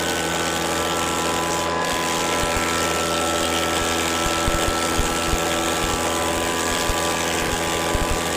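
A motor running steadily at a constant speed, a continuous hum made of several steady tones, with no change in pitch.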